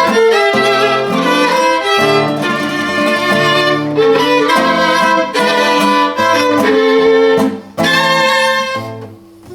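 Violin playing a melody over an accompaniment with bass notes, closing on a final phrase that ends about a second before the end.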